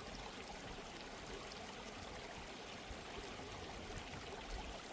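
Soft, steady sound of running water, like a gently flowing stream, with no voice over it.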